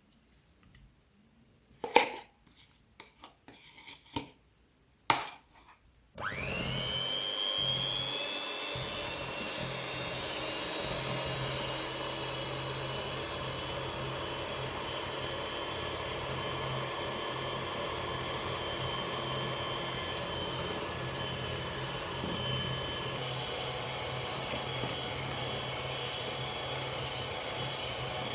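A few sharp clicks and knocks, then about six seconds in a small electric kitchen appliance motor switches on. Its whine rises quickly, then it runs steadily.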